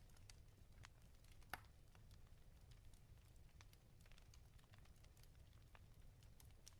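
Wood fire crackling in a fireplace, faint: scattered sharp pops and snaps over a low rumble, with one louder pop about a second and a half in.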